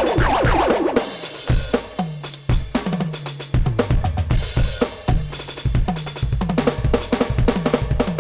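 NUX DM-8 electronic drum kit played through its sound module: a groove and fills of kick, snare and tom hits, with a cymbal crash about a second in. The toms drop in pitch after each strike.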